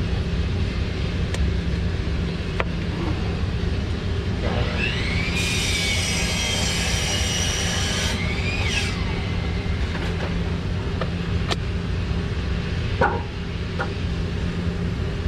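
Handheld power screw gun spinning up with a rising whine, running for about three seconds and winding down, driving a coil hold-down screw. A steady low rumble sits underneath, and a few sharp clicks come near the end.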